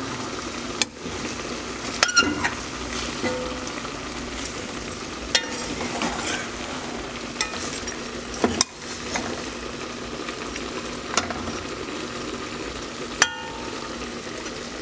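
Chicken pieces with bell pepper, onion and tomato sizzling in a pot as they are stirred, a spoon knocking and scraping against the pot now and then.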